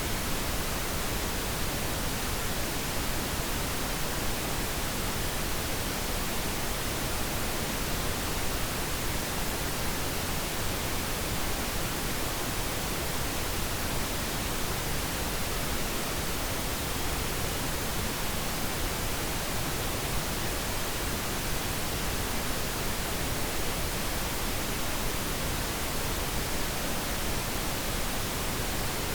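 Steady pink noise, an even, unchanging hiss with no other sounds, played continuously as a sleep aid.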